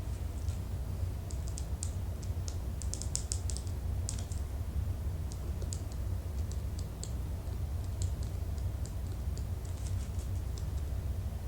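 Typing on a keyboard: irregular light key clicks, some in quick clusters and some spaced out, over a steady low hum.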